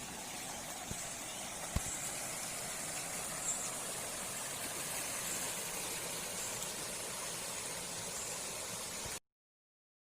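Steady rush of flowing water, with a couple of faint clicks, cutting off abruptly near the end.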